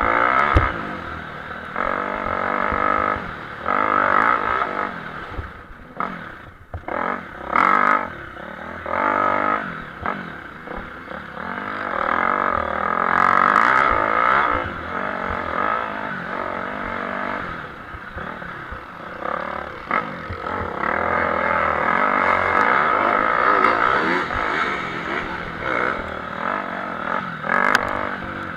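Motocross motorcycles racing, their engines revving hard and easing off again and again as the pitch climbs and falls, with sharp cracks now and then.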